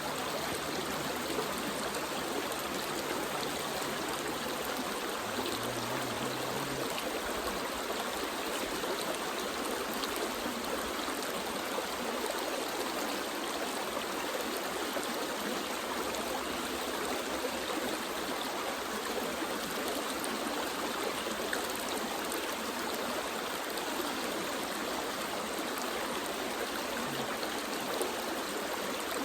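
A small rocky creek's water running steadily over stones, rushing and trickling.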